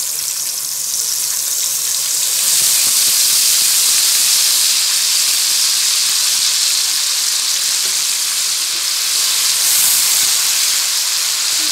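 Ginger-garlic paste and fried onions sizzling loudly in hot oil in a wok, a steady hiss that grows louder a couple of seconds in.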